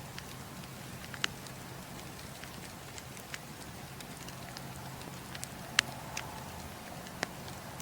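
Wood fire burning: a steady soft hiss with sharp crackles and pops every second or two, about six in all, the loudest a little past the middle.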